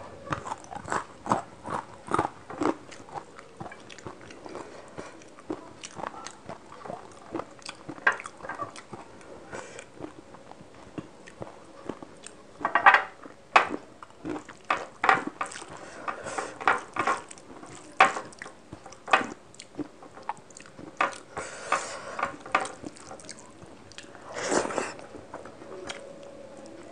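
Close-miked wet chewing and lip smacking of rice and fish curry eaten by hand, with a rapid, irregular run of sticky clicks and smacks. The squelch of fingers mixing curry into rice on the plate joins in.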